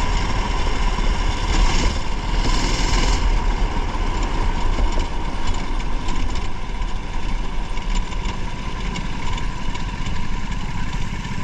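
A race car's engine running steadily with road and tyre noise, heard from a camera mounted inside the car.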